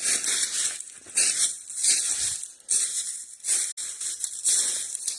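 Footsteps crunching through dry leaf litter and underbrush, with brush and briars rustling against clothing, about one step a second.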